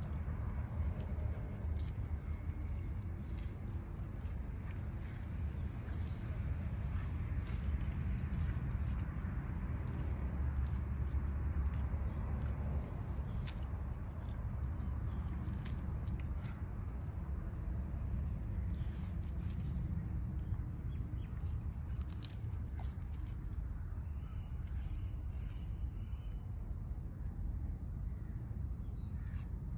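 Insects chirping steadily: a continuous high buzz with a pulsed chirp repeating about once a second, over a low, even rumble.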